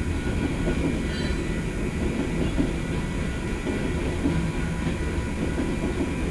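BNSF freight train rolling past: a steady low rumble of wheels on the rails.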